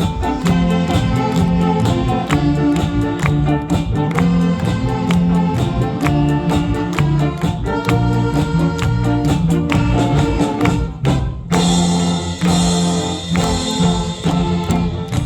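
Saxophone big band playing live, a medley of Korean trot and popular songs with a steady beat. The music breaks off for a moment about eleven seconds in, then comes back in with brighter percussion.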